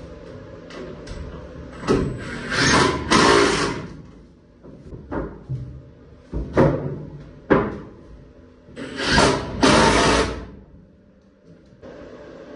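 Hand and power tool work on wall framing: several short noisy bursts about half a second long, with sharp knocks in between.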